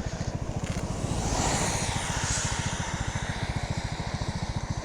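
Motorcycle engine running with a steady, fast low pulse, and a rushing hiss that swells up and fades away again in the middle.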